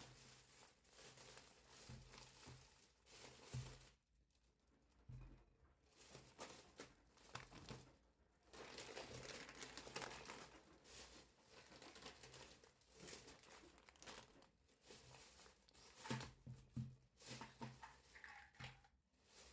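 Packaging crinkling and rustling as it is handled, with scattered light clicks and knocks.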